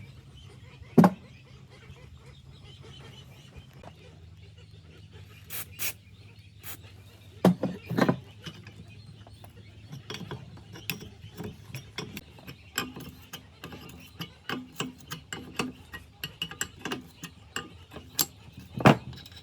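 Irregular metallic clicks, ticks and knocks of tools and machine parts being worked during a restoration, over a faint steady hum. There are single louder knocks about a second in and near the end, and a cluster of knocks around the middle.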